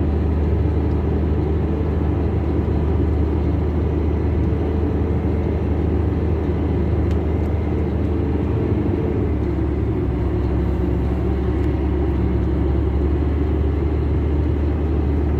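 A motor vehicle's engine running steadily with a low rumble; its pitch shifts slightly about nine seconds in.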